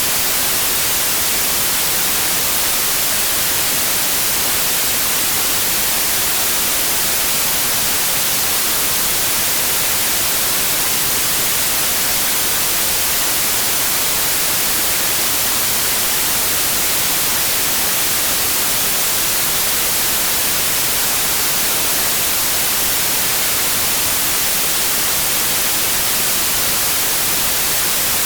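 White noise: a steady, even hiss, strongest in the high frequencies, with no change or break.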